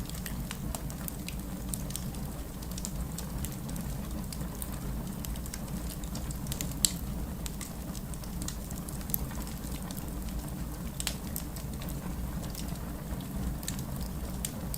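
Steady rain with a low rumble, mixed with the sharp, irregular crackles and pops of a wood fire; one pop about seven seconds in is louder than the rest.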